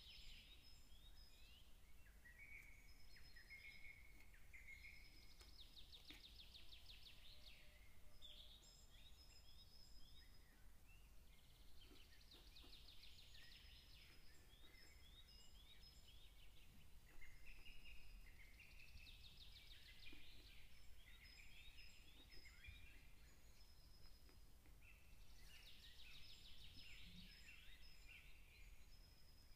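Faint birdsong: several small birds chirping, whistling and trilling over a low steady hum, with rapid trills coming in bouts every several seconds.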